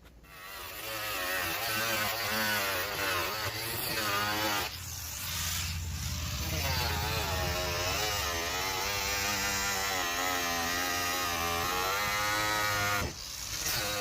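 Electric power saw running and cutting into a plastic barrel, its pitch wavering under load and cutting out briefly twice.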